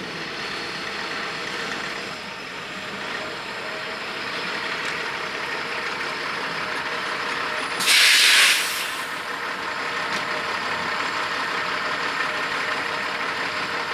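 Semi truck engine running steadily, with one loud hiss of the air brakes lasting about a second, a little past the middle.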